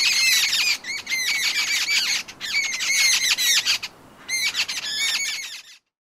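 Jungle babblers chattering: rapid runs of squeaky, repeated calls in four bursts with short pauses between, cutting off suddenly near the end.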